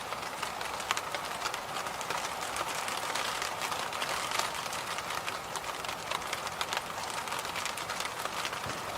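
Electric fan running steadily: an even rushing noise, strongest in the upper range, with many quick, irregular light clicks through it.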